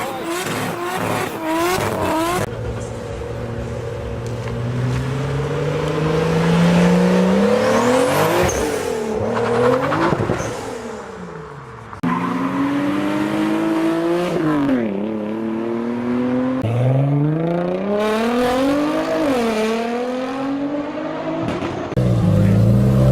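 Car engines revving and accelerating in a string of short clips, the engine pitch climbing steeply with each pull. About eight to ten seconds in, one car goes by with its pitch rising then falling.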